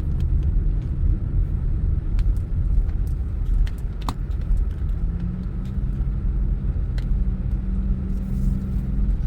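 Car driving along a road, heard from inside the cabin: steady low engine and road rumble, with a steady hum coming in about halfway through and a few light clicks.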